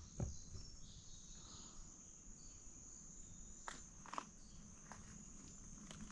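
Faint, steady high-pitched buzz of insects such as crickets, with a few soft footstep clicks a little past the middle.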